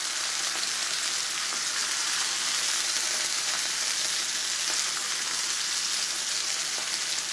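Cooked black beans and their cooking liquid sizzling and bubbling in a skillet of hot lard with browned onion and garlic: a steady hiss.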